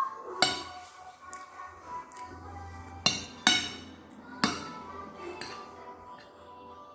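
Cutlery clinking against a plate four times, sharp ringing strikes while eating rice and stew. Cartoon music from a television plays steadily in the background.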